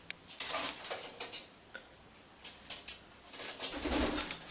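Scattered light clicks and taps with a little soft rustling, as small objects are picked up and handled during a parrot's fetch-and-give trick.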